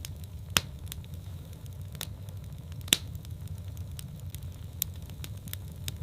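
Wood fire in a fireplace crackling over a steady low rumble, with scattered small ticks and two sharp pops, about half a second and three seconds in.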